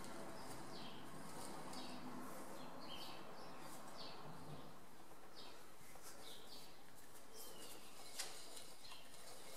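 Small birds chirping faintly, many short calls a second, over a steady low background hum, with one sharp click about eight seconds in.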